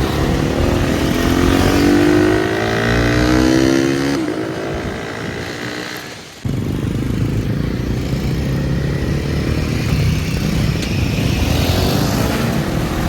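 KTM Duke 250's single-cylinder engine through an aftermarket Barrel decat and slip-on exhaust, loud, rising in pitch as it revs up over the first few seconds, then running more steadily and climbing again near the end, with abrupt jumps where separate clips are joined.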